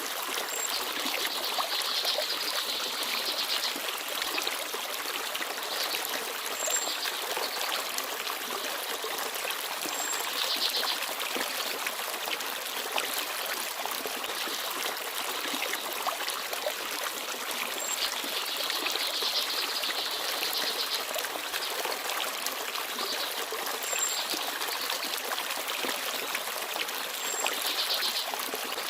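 Small forest stream babbling and trickling steadily over rocks. Small birds chirp now and then above it, with short rapid trills every few seconds and brief high chirps.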